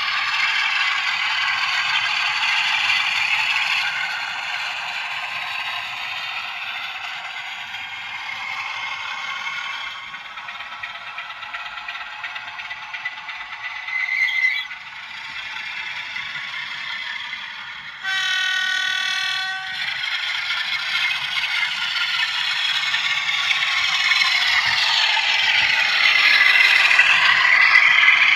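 OO gauge model diesel locomotive running on the layout, its sound-decoder engine note playing thinly through a small onboard speaker over the running noise of the model, with one horn blast of nearly two seconds about two-thirds of the way through. The engine sound grows louder and rises in pitch near the end.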